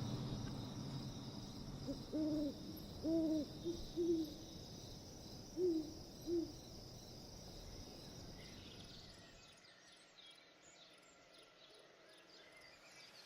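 An owl hooting: about six short, low hoots in an uneven series over a few seconds, over a steady high hum of night insects that fades out later on.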